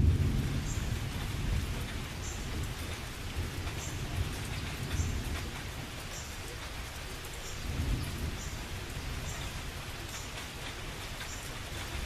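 Thunder rumbling and dying away over steady rain, with another low rumble of thunder about eight seconds in.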